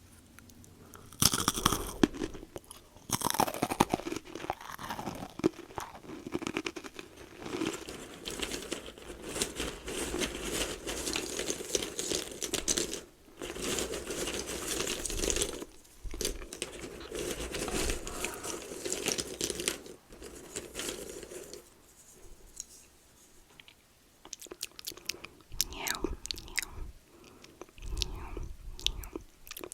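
Close-up chewing and crunching of a crunchy snack, in runs of a few seconds with short pauses between them.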